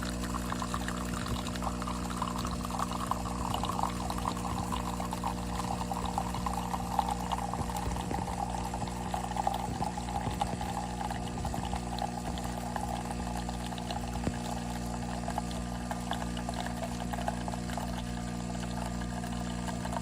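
De'Longhi Magnifica Start espresso machine dispensing a drink: a steady pump hum under liquid pouring into a cup, the pouring sound slowly sinking in pitch.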